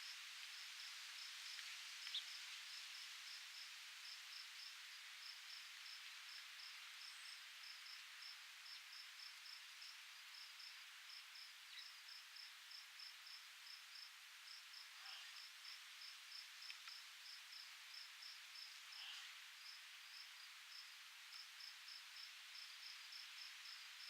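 Faint outdoor nature ambience: a soft, even hiss of breeze under a steady high-pitched insect chirping of about two to three short pulses a second, with a few faint bird chirps.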